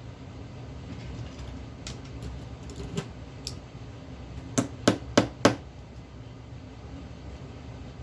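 Small hard clicks of tools and metal parts being handled on a workbench: a few faint ticks, then four sharp clicks in quick succession about halfway through, over a steady low hum.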